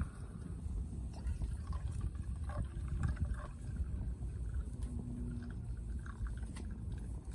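Strong wind buffeting the microphone as a steady low rumble, with a few faint crackles from a wood fire burning in a Solo Stove.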